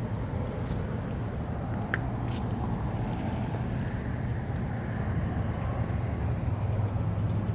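Steady low mechanical hum, like an engine or machine running, with a few light clicks and crackles about two seconds in.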